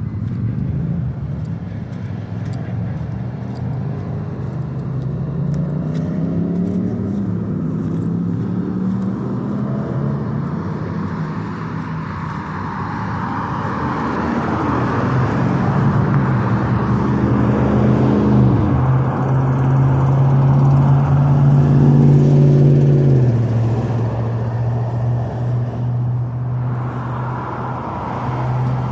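A motor vehicle's engine running, its pitch rising gradually and then dropping in sudden steps, twice in the second half.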